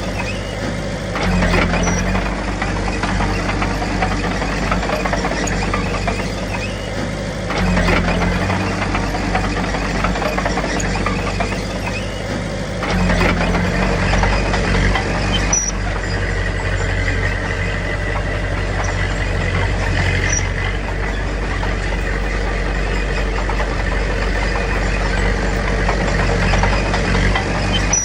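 Diesel engine of a Komatsu D21P bulldozer running steadily, rising in level and pitch under load about a second in, near eight seconds and again near thirteen seconds, as the dozer works.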